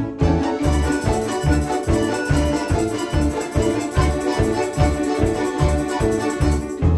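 Russian folk-instrument orchestra playing, sustained reedy chords over a steady bass beat of about three notes a second.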